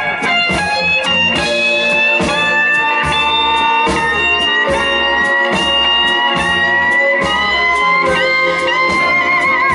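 Live blues band playing an instrumental passage: a lead guitar holds sustained, bending notes with vibrato over a steady drum beat and bass.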